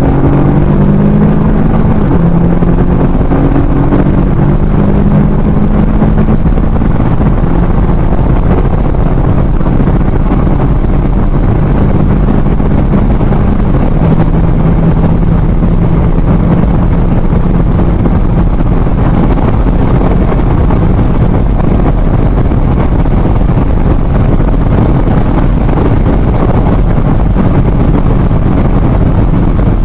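Turbocharged 2.0-litre four-cylinder car engine under full-throttle acceleration from about 100 to 250 km/h, heard from inside the cabin. A gear change comes right at the start, then the engine note climbs slowly through the higher gears over heavy wind and road noise.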